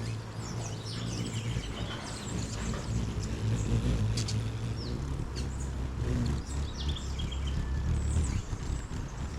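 Hummingbirds and other small birds chirping, with many short, high, falling calls scattered throughout, over a steady low rumble.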